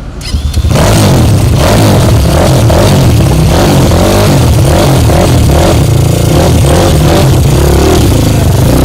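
Superbike engine revved hard through a loud modified exhaust, very loud and pulsing, starting about a second in. The exhaust has been made louder than stock.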